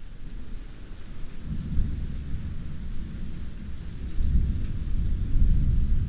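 Rain falling steadily with rolling thunder: a low rumble builds about a second and a half in and grows loudest near the end, under the rain's even hiss.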